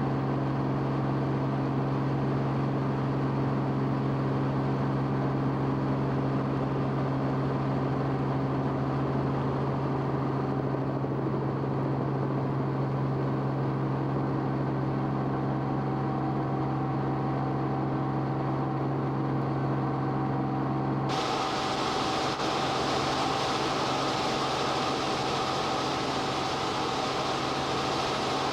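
Steady drone of aircraft engine and cabin noise, with a fixed low hum and several higher steady tones over a rushing hiss. About three-quarters of the way through it changes abruptly and becomes hissier and brighter.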